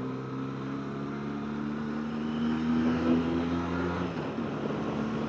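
Benelli TRK 502X parallel-twin engine running under steady throttle while riding, its note climbing slightly, with rushing noise underneath. About four seconds in, the engine note changes abruptly.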